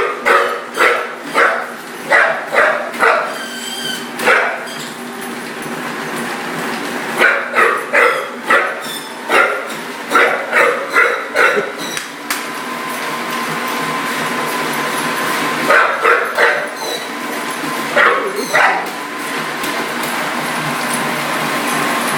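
A dog barking and yipping in quick runs of several barks, with pauses of a few seconds between runs. Under the barks is a steady running noise from the treadmill the dog is on.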